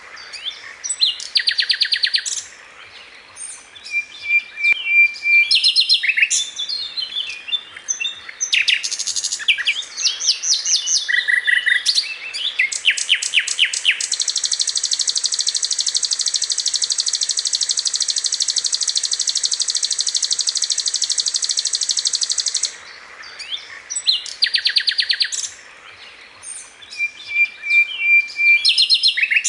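Sikatan londo songbird singing: rapid high trills, chirps and repeated notes, broken by short pauses, with one long, even buzzing trill of about eight seconds midway.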